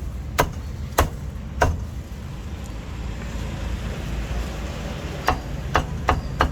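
Cleaver chopping roast meat on a cutting block: three sharp chops about half a second apart, then four more near the end, over a low street rumble.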